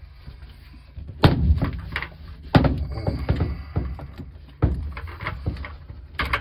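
Hands working with hard objects: a string of sharp knocks with clicks and rattles between them, the loudest knocks coming roughly every one to two seconds.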